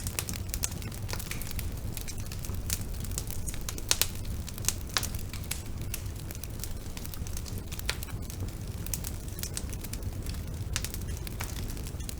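Bonfire burning: a steady low rumble of flames with sharp crackles and pops at irregular moments, the loudest about four seconds in.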